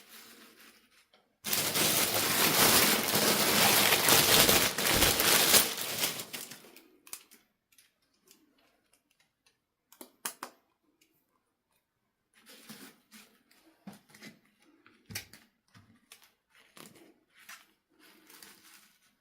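Handling noise from toys and packaging: a loud rustling burst lasting about five seconds near the start, then scattered clicks and taps.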